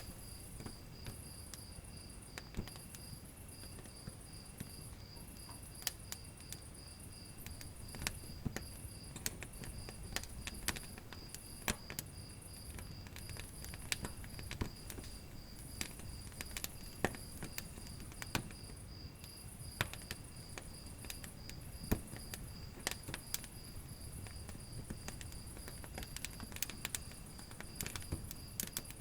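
Wood fire crackling, with many sharp pops and snaps over a low rumble of flames. A cricket chirps steadily and evenly behind it, and a higher insect buzz comes and goes in stretches.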